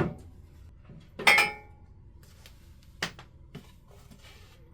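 A single sharp metallic clank about a second in, ringing briefly, then a couple of light clicks and taps from parts and tools being handled at the saw base. A low hum runs underneath.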